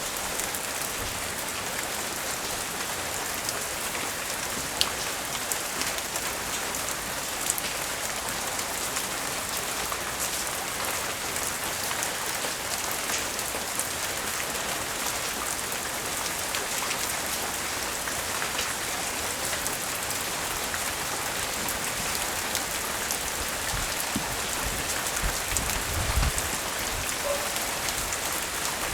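Steady tropical-storm rain falling and dripping, with many small scattered drips and a few low rumbles near the end.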